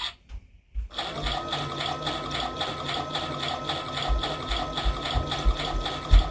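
Playgo toy washing machine running an empty wash cycle: a small battery motor whirring with a steady high tone and a quick, even clicking of about four beats a second. The sound cuts out for about a second at the start, and a few low knocks come in near the end.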